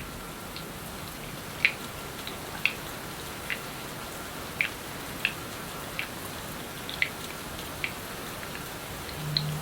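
Rain sound: a steady hiss with single drops landing at irregular intervals, about nine in the stretch.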